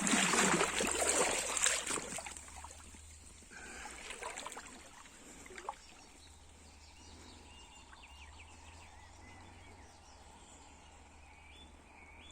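Water splashing and rushing for about two seconds, then settling to the faint trickle of a small river, with a few faint bird chirps near the end.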